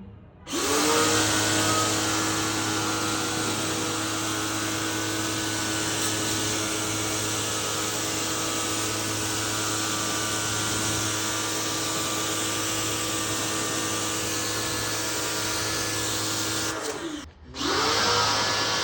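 Electric power-tool motor spinning up with a quick rising whine about half a second in, then running steadily with a strong hiss. Near the end it stops briefly and spins up again.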